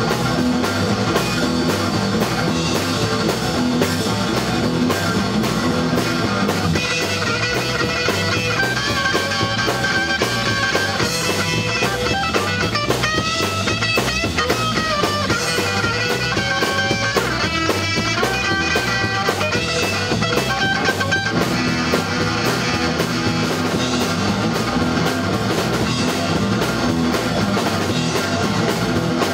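Rock band playing: guitars and drum kit at a steady loud level, with a lead guitar melody that comes in about a quarter of the way through and drops out about two-thirds of the way through.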